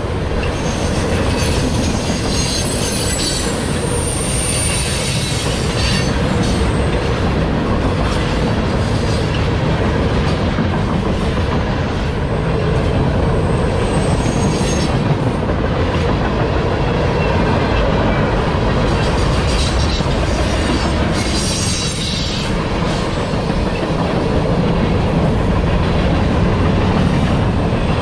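CSX freight train rolling past at close range: a steady rumble of wheels on rail with clickety-clack, and high wheel squeal breaking in a few times.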